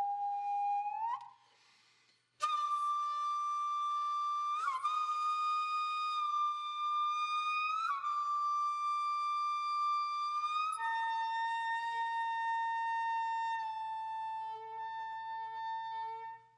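Background music: a solo flute playing slow, long held notes, with a brief gap between phrases about two seconds in.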